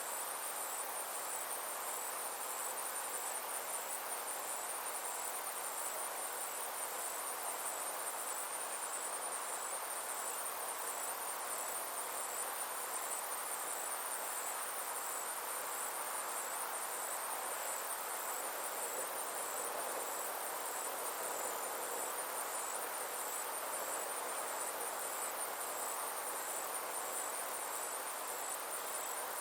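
Summer insects trilling steadily: a high, finely pulsing buzz that runs without a break, over a soft, even background hiss.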